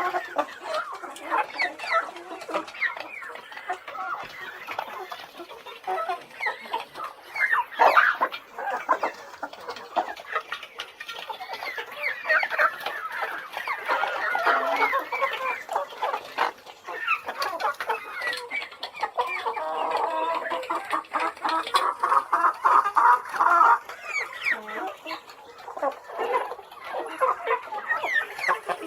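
Chickens clucking in a dense, continuous run of short calls, with a longer held call about twenty seconds in.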